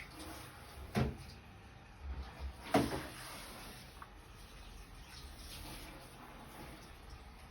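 Two short knocks over quiet room noise: a lighter one about a second in and a louder one, with a short ring-out, near three seconds.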